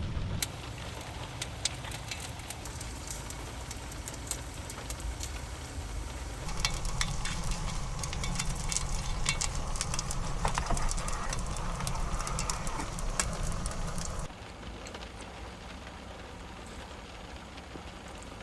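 Rain drumming on a vehicle, with many sharp drop ticks over a steady low engine and road rumble. The mix changes abruptly a few times and turns quieter for the last few seconds.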